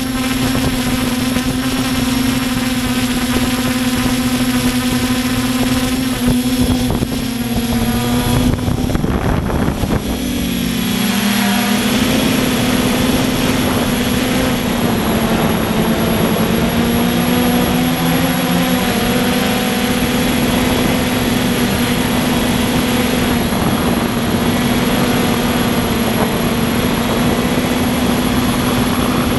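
Electric motors and propellers of a radio-controlled quadcopter, a steady whine heard from the drone itself. The pitch wavers and dips for a few seconds about a quarter of the way in and shifts slightly again around the middle as the throttle changes, then holds steady.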